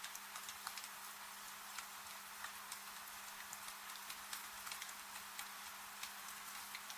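Wood fire crackling in a fireplace, with irregular sharp pops and snaps over a steady rain hiss, and a faint steady low hum underneath.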